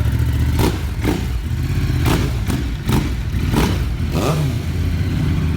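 Motorcycle engine running steadily near idle, with a handful of short knocks and clatters over it.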